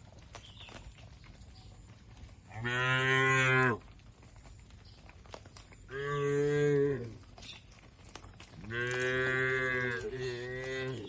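Cattle mooing: three long moos a few seconds apart, each tailing off at the end, the last one the longest and running straight into a second, shorter moo near the end.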